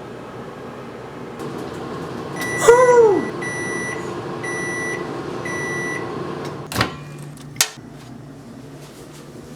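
Microwave oven running with a steady hum, then signalling the end of cooking with four evenly spaced beeps about a second apart; the first beep comes with a loud, short falling tone. Two sharp clicks follow, as of the door latch being opened.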